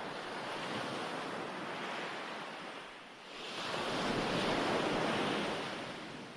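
Recorded ocean waves washing onto a shore: one swell rises and eases off, then a second, louder wave comes in about three and a half seconds in and slowly recedes.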